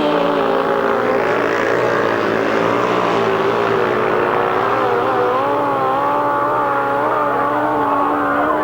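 Several grasstrack racing motorcycle engines running hard together, their notes rising and falling as the bikes race around the track.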